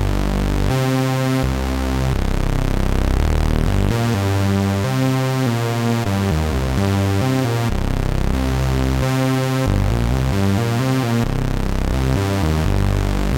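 Waldorf Pulse 2 monophonic analog synthesizer playing a bass preset: a repeating bass line of short notes that change pitch, with the pattern coming round about every four seconds.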